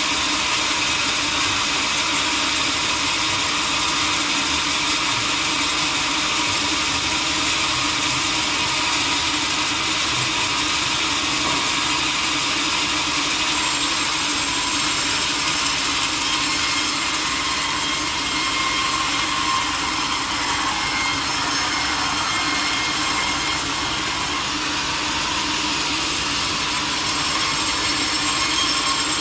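Sawmill saw cutting steadily through a teak log, a continuous even rasp of the blade in the wood over the hum of the mill's drive.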